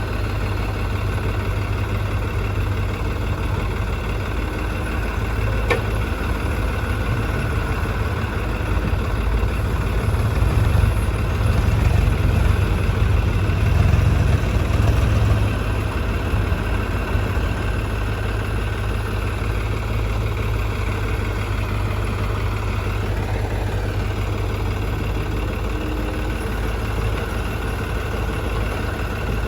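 Diesel engines of a tractor and a backhoe loader running steadily. They get louder for several seconds in the middle, and there is one brief knock about six seconds in.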